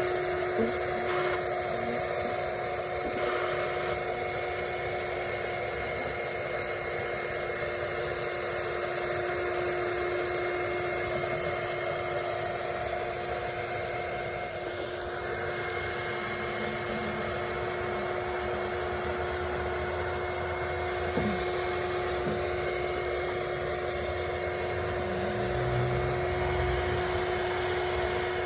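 A small motor running steadily with a constant high-pitched whine, unchanged in pitch and level throughout.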